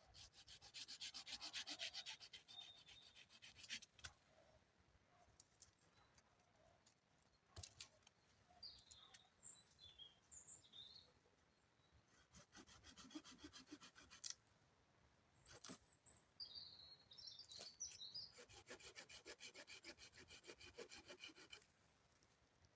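Three bouts of rapid, even back-and-forth scraping strokes, like something being rubbed or worked on wood. Short bird chirps come between the bouts.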